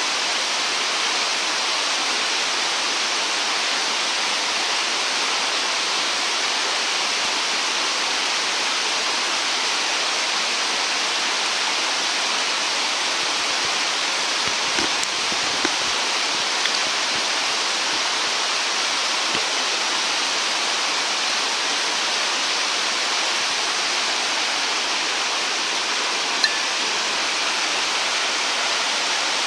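Steady rushing of flowing water, even and unbroken, with a few faint ticks about halfway through and a single sharp tick near the end.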